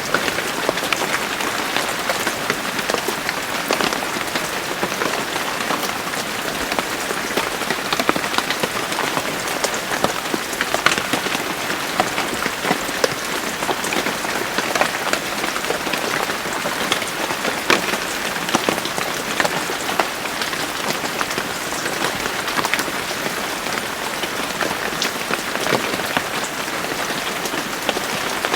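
Steady rain falling, with the dense patter of many individual drops hitting a surface.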